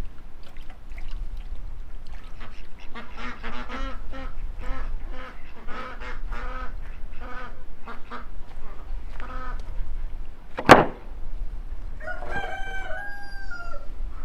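Farmyard poultry calling: a quick series of short, repeated pitched calls. About two thirds of the way through comes one sharp, loud knock, and near the end a longer call that falls in pitch.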